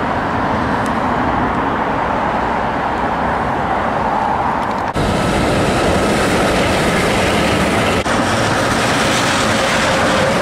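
A train passing with steady, loud running noise. After a sudden break about five seconds in, an Osaka Monorail train passes overhead with a steady whine. The sound drops out again briefly near eight seconds.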